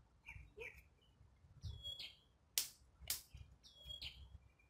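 A bird calling twice, about two seconds apart, each call a short high whistle that slides down and levels off. A few faint sharp clicks or taps fall in between.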